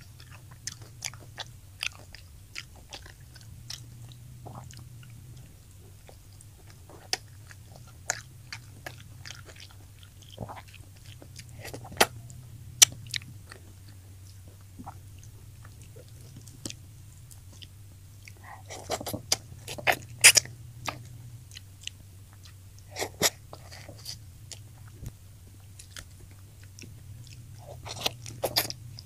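Close-up eating sounds of crispy fried tilapia being bitten and chewed, with sharp crunches and wet mouth clicks scattered throughout. The crunches come thickest in a burst about two-thirds of the way in and again near the end. A low steady hum runs underneath.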